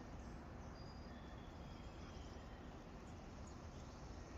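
Faint outdoor ambience: steady background noise with a few faint, distant bird calls, short high whistles here and there.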